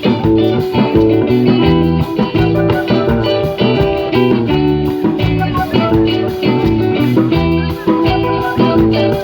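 Live reggae band playing an instrumental passage, with guitar, bass and drums over a steady beat.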